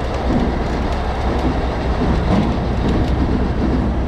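Heavy diesel truck engine running steadily under load, with a few light metallic clicks and rattles.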